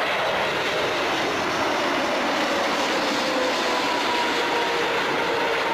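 Steady jet aircraft engine roar, with faint whining tones that slowly fall in pitch.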